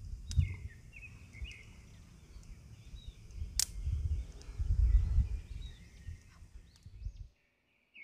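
Small birds chirping over and over in short calls, over an uneven low rumble that swells about halfway through. A single sharp click about three and a half seconds in, and the sound cuts out abruptly shortly before the end.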